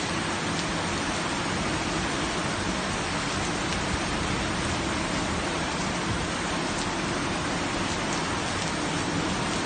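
Steady rain falling on surfaces, an even hiss with scattered faint drop ticks.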